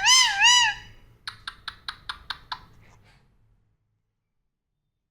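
Young parrot giving a loud, wavering screech that warbles up and down twice, then a quick run of about seven short, sharp clicking calls at roughly four a second, the sound of an agitated bird.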